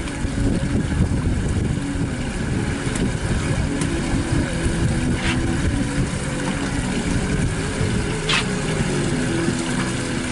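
Pontoon boat's motor running steadily while under way, with two brief high ticks about five and eight seconds in.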